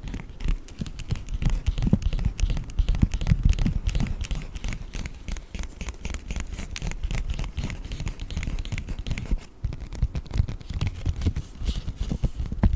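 Paper bag being crinkled and scratched by hand, a dense, continuous stream of crackles.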